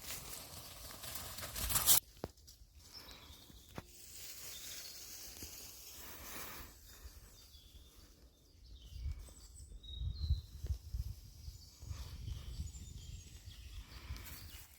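Outdoor ambience of a walk: rustling and footsteps, loudest for the first two seconds, with low rumbles of wind on the microphone around the middle.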